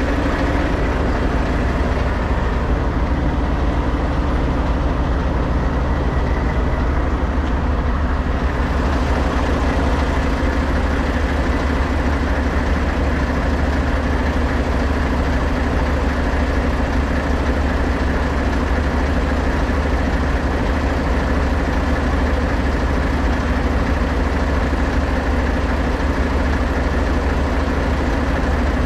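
Heavy truck engine idling steadily, with an even, unchanging low drone.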